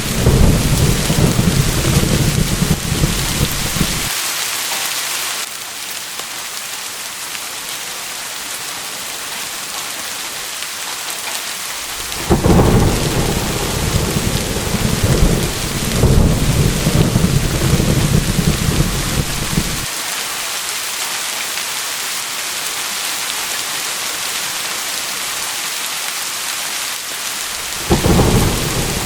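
Steady heavy rain with three spells of deep rolling thunder: one in the first few seconds, a longer one from about twelve to twenty seconds in, and another starting near the end. Each rumble cuts off suddenly.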